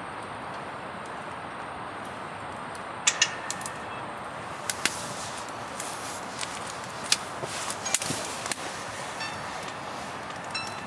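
Wood fire crackling with scattered sharp pops over a steady hiss, with a single metallic clink about three seconds in.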